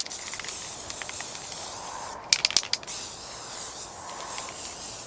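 Aerosol can of synthetic rubber coating spraying in a steady hiss. A little after two seconds the spray stops briefly, with a few sharp clicks, then starts again.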